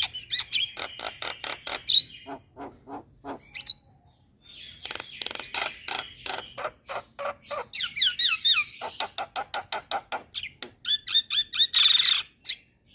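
Starlings (mynas) singing: rapid trains of harsh clicks and chatter mixed with whistled notes and descending glides, with a short lull about four seconds in.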